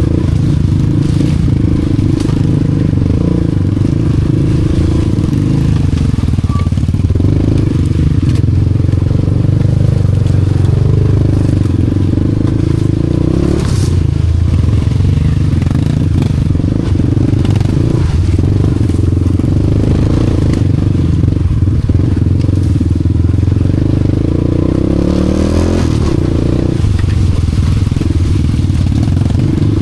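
Honda Wave 125 underbone motorcycle's single-cylinder four-stroke engine running steadily under load, with clattering and scraping from the bike going over rough ground. The engine pitch rises briefly near the end.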